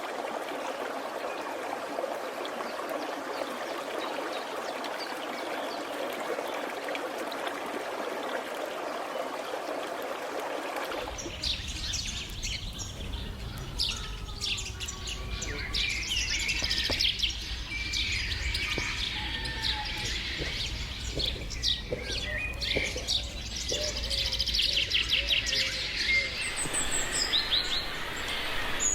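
A dense, steady chorus of insects buzzing, which cuts off suddenly about 11 seconds in. Many birds then call together, with chirps, whistles and gliding notes over a low rumble.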